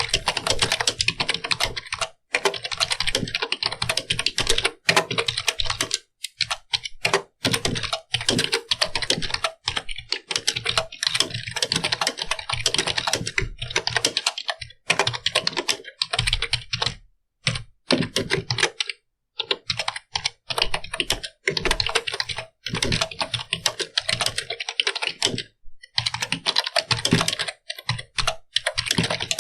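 Fast, continuous typing on a computer keyboard: rapid key clicks in long runs, broken now and then by brief pauses.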